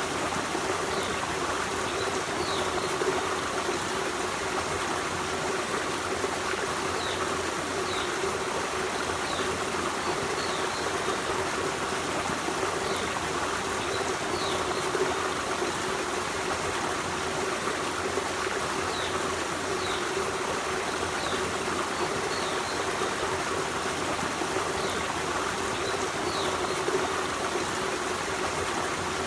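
Forest stream running steadily, an even rush of water. Short high chirps from a bird come every couple of seconds.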